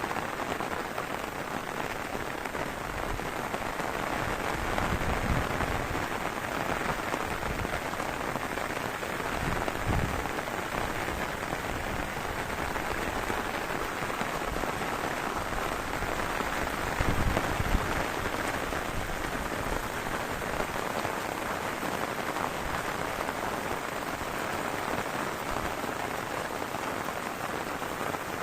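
Heavy rain falling steadily in a dense, even hiss, with a few brief low gusts of wind buffeting about five, ten and seventeen seconds in.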